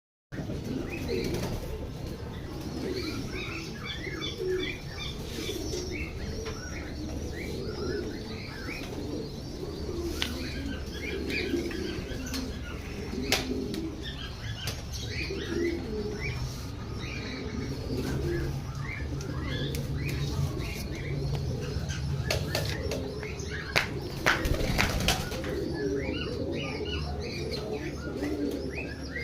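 A flock of pigeons cooing and flapping their wings, with many short high chirps mixed in and a few sharp wing claps; a steady low hum runs underneath.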